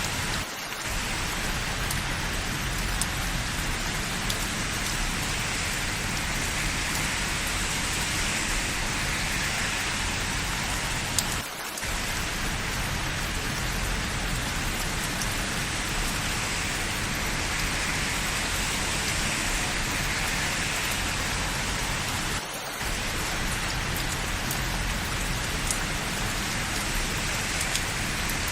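Steady rain falling, an even hiss with a few faint drop ticks, briefly dipping in level three times, about eleven seconds apart.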